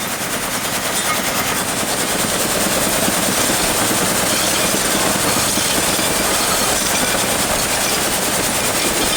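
Motorized shaker table running, rapidly rattling gravel and stone across its screen in a dense, even clatter that grows louder over the first couple of seconds and then holds steady.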